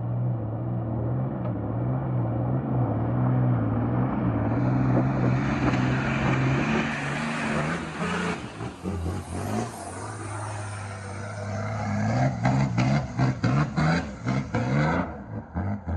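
A four-wheel drive's engine running steadily, then working harder as a rushing noise builds, typical of tyres spinning and sliding on the snowy track. In the last few seconds the sound turns into a rapid fluttering pulse.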